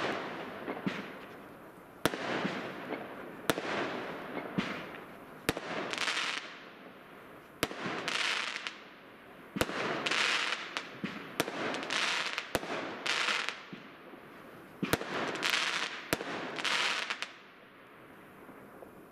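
Thunder Storm shot-tube firework (a Roman candle) going off in a string of about nine sharp bangs, one to two seconds apart, each followed by a hissing, crackling burst. The shots stop near the end.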